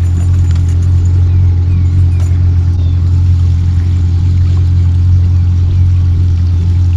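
Boat motor running steadily at trolling speed: a loud, even low drone.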